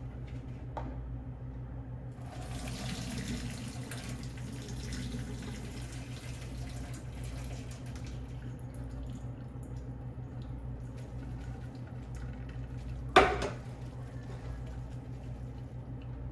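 Water running or pouring for several seconds over a steady low electrical hum, then a single sharp knock about thirteen seconds in.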